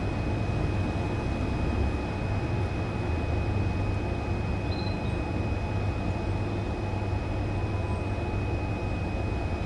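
Steady low rumble with a thin, faint high whine held throughout; one brief, faint bird chirp about halfway through.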